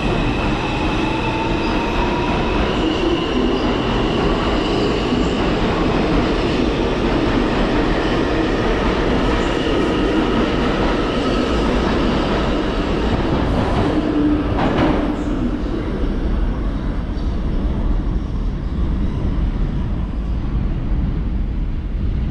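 R142 subway train running, with a steady rumble of wheels on rail and thin, high wheel-squeal tones over it. A faint rising whine comes near the start, and a short sharp sound about two-thirds of the way through.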